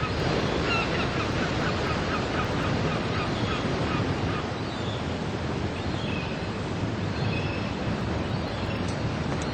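Sea surf washing steadily, with short bird calls repeating over it.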